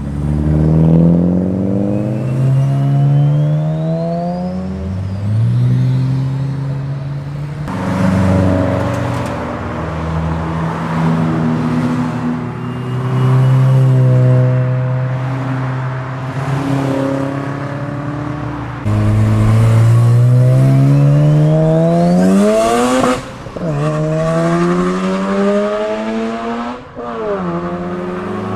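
Street-ported 13B twin-rotor engine of a single-turbo Mazda RX-7 FD3S accelerating hard several times, its note climbing in pitch on each run. About two-thirds of the way in it revs up steeply and drops off suddenly.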